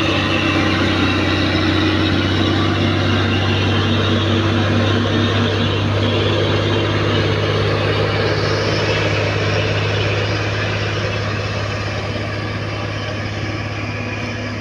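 Truck engine running steadily with a low drone, growing quieter over the last few seconds.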